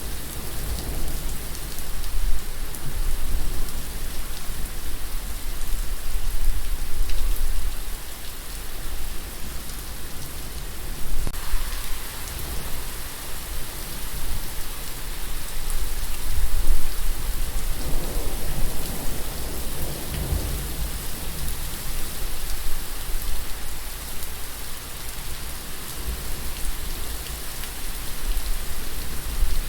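Steady rain falling, an even hiss of drops on surfaces. A low rumble swells and fades a few times, most strongly in the first third and again about two-thirds of the way through.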